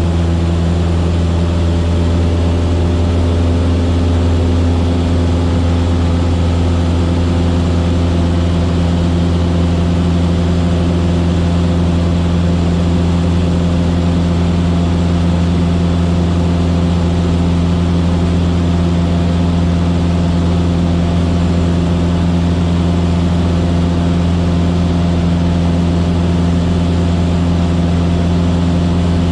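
Cessna 152's Lycoming O-235 four-cylinder engine and propeller running steadily in flight: a loud, constant drone that holds one pitch throughout.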